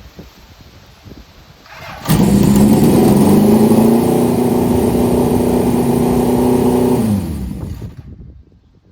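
Motorcycle engine suddenly brought up to a steady raised speed and held there for about five seconds, then its revs drop and it fades away. This is the kind of held rpm used while balancing the carburetors.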